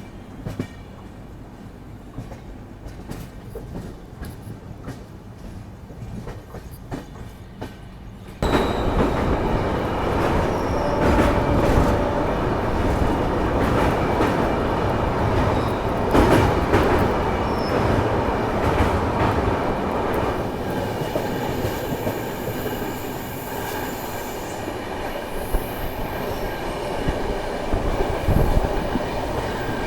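Express passenger train running on the rails: steady rumble and wheel clatter, with a few thin high squeals from the wheels later on. It is fairly quiet at first and becomes suddenly much louder about eight seconds in.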